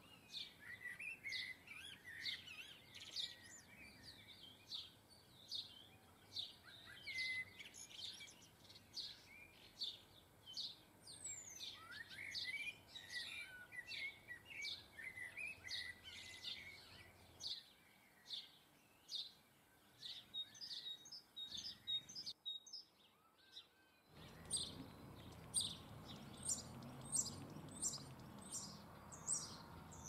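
Small garden birds chirping, short high chirps about twice a second throughout, with runs of twittering in the first half. A brief near-silent gap comes about three-quarters of the way through, after which the chirping goes on over a little more background noise.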